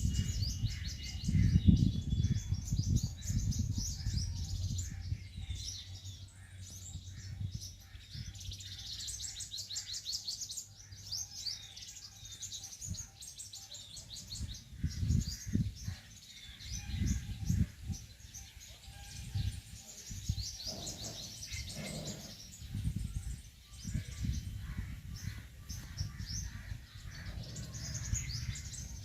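A chorus of many small birds chirping and twittering, dense runs of short high calls overlapping throughout. Irregular low rumbling comes and goes underneath and is the loudest part, strongest in the first few seconds.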